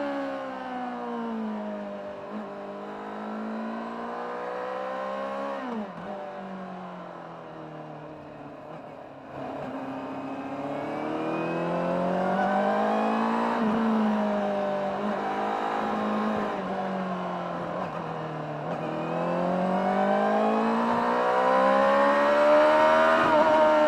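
Honda CBR600RR inline-four engine heard from on board the motorcycle, its pitch sweeping up and down with throttle and gear changes. Revs fall off at first, a quick rise and sharp drop comes about six seconds in, then the throttle opens suddenly near ten seconds. Several rises and falls follow, climbing to the highest revs near the end.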